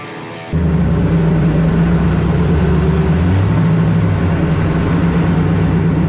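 A drift car's supercharged Ford Mustang engine running hard and loud at a fairly steady pitch, cutting in abruptly about half a second in after a brief quieter passage of held tones.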